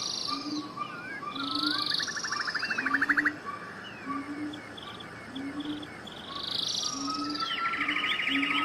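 Several wild birds singing together: buzzy notes, gliding whistles and a rapid trill that swells about two to three seconds in and again near the end. A short low note repeats steadily underneath, about once every 0.7 seconds.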